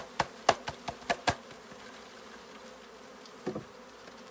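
A wooden bee package being knocked against the hive to shake the honey bees out: a quick run of sharp knocks, about five a second, that stops about a second and a half in. After that comes the steady buzzing of the loosed bees, with a short double thud near the end.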